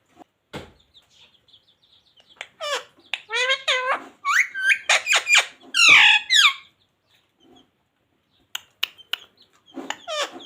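Indian ringneck parakeet chattering in a quick run of short, high, squeaky calls a few seconds in. A few sharp clicks follow near the end.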